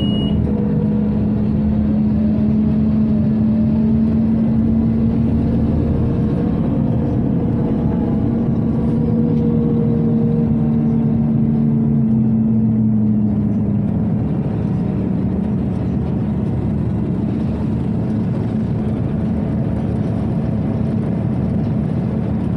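Inside a Scania OmniCity city bus on the move: steady running noise of the engine and ventilation, with a droning hum that weakens about thirteen seconds in. A short high beep sounds right at the start.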